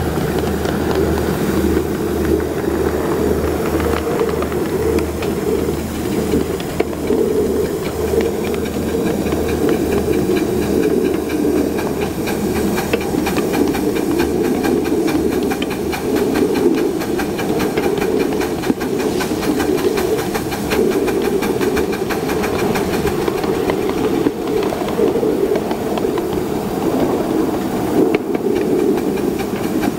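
7½-inch gauge live-steam model of a Pennsylvania K-4 locomotive running, its steam hissing steadily, with a low pulsing underneath during roughly the first third.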